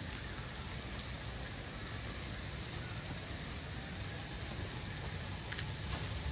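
Meat frying on an iron griddle plate, a steady sizzle while it is still cooking.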